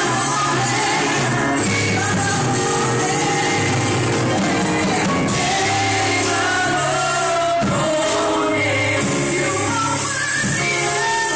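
Live gospel worship music: voices singing a praise song over a band, loud and continuous.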